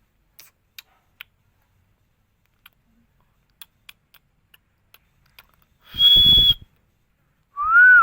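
Green parrot: a few faint clicks, then a loud shrill squawk about six seconds in, and a short whistle that rises and falls near the end.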